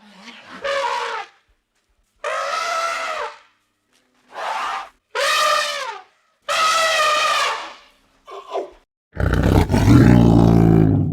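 Elephant trumpeting: about five separate calls in a row, each a second or less. About nine seconds in, a tiger roars, loud and low.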